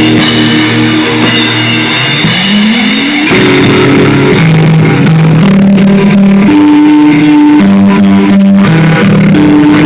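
Live rock band playing guitar and drums, with held notes and a note sliding up in pitch about two seconds in.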